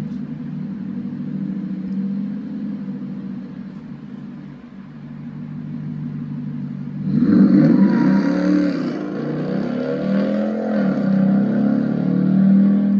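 4.7L Magnum V8 exhausting through a Borla ATAK muffler, idling steadily, then revved several times from about seven seconds in, the pitch rising and falling with each rev.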